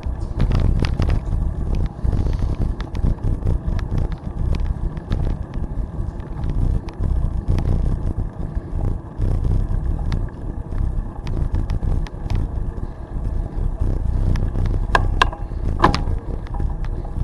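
Wind rumbling on the microphone of a moving bicycle, with tyre noise on the trail and scattered small clicks and rattles. A couple of brief higher-pitched sounds come near the end.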